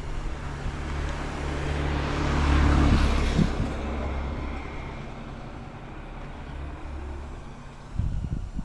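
A motor vehicle driving past, its engine hum and tyre noise swelling to a peak about three seconds in and then fading away.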